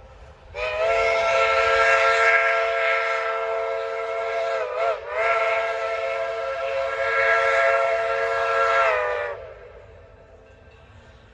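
Steam locomotive chime whistle on the Durango and Silverton narrow-gauge railroad, sounding a loud chord of several tones in two long blasts of about four seconds each, with a brief dip in pitch and level between them.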